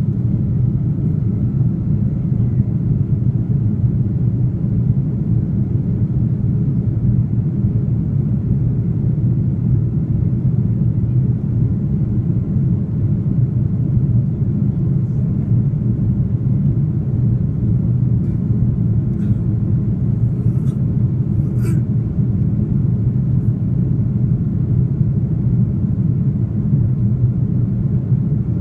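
Steady low rumble of an Airbus A330-300's engines and cabin noise, heard from a passenger seat inside the cabin. A few faint clicks come about two-thirds of the way through.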